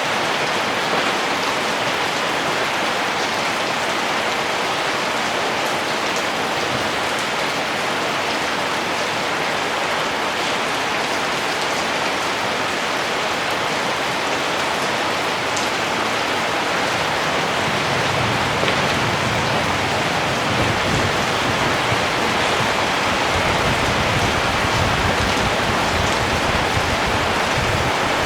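Steady rain falling, an even hiss of many drops. A low rumble comes in about two-thirds of the way through.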